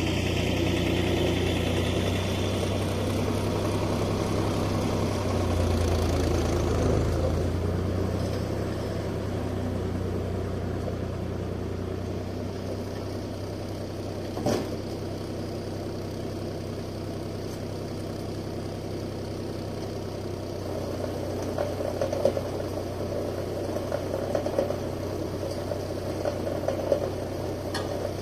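Steyr 540 tractor's diesel engine idling steadily, a little louder for the first several seconds before settling lower. A single sharp click about halfway through and a few light knocks near the end.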